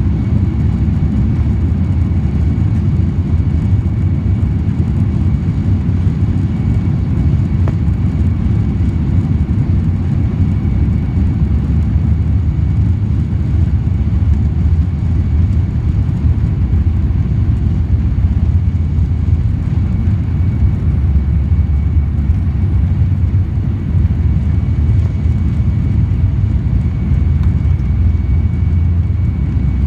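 Steady low rumble of a Boeing 767-400ER's jet engines heard inside the passenger cabin, with a faint steady high whine over it.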